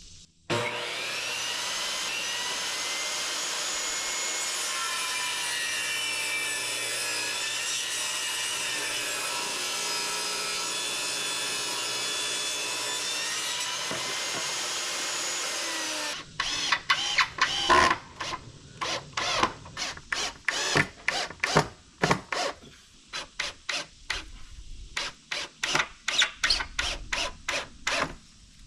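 Power saw ripping a 2x4 lengthwise in one steady cut of about fifteen seconds, its motor whine wavering under load. It stops sharply, and a rapid, irregular series of sharp wooden knocks and clatters follows.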